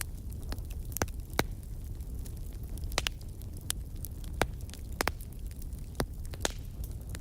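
Burning wood fire crackling: sharp irregular pops from the burning logs, about nine of them, over a low steady rumble of the flames.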